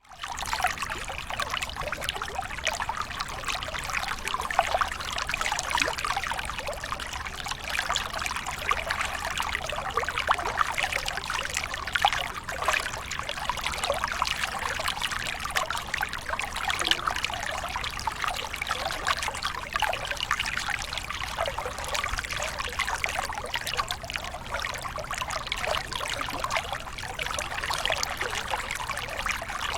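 Water from a small waterfall splashing and trickling steadily.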